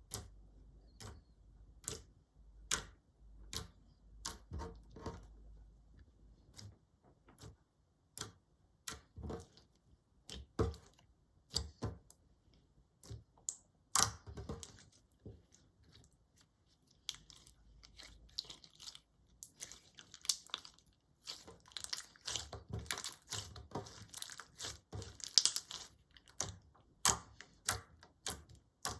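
Clear slime being worked by hand, making irregular sharp pops and clicks that come thicker and faster in the last third.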